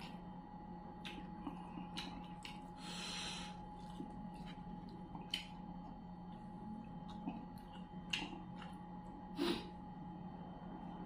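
Close-up mouth sounds of a man eating fried fish by hand: scattered wet chewing and lip-smacking clicks, with a short breath through the nose about three seconds in. A faint steady hum runs underneath.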